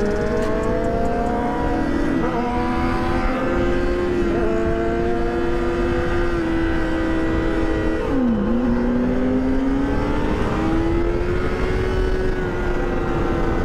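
Straight-piped sport motorcycle engine under way with the exhaust muffler deleted, climbing in pitch through two gear changes in the first few seconds, holding steady, dipping sharply about eight seconds in and then climbing again. Wind rumble runs underneath.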